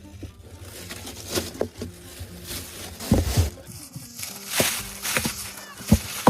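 Scattered knocks and thuds with a couple of short hissing rushes, over faint steady background music.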